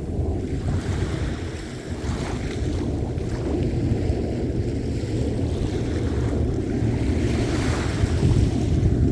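Ocean surf: waves breaking and washing on a shore, in a continuous low wash that builds to a louder surge near the end. Wind rumbles on the microphone underneath.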